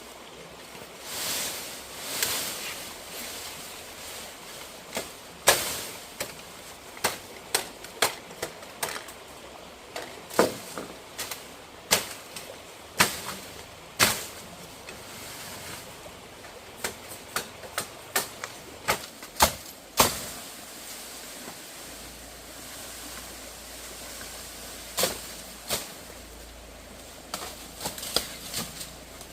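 Irregular sharp knocks and taps from building work on a chicken coop, some singly and some in quick clusters, with a quieter stretch about two-thirds of the way through.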